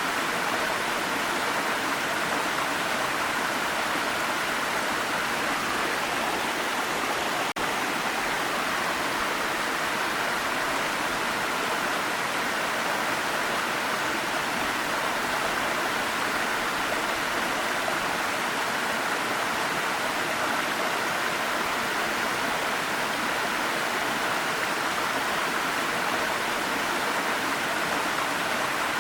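Waterfall: a steady, unbroken rush of falling water, with one very brief dropout about seven and a half seconds in.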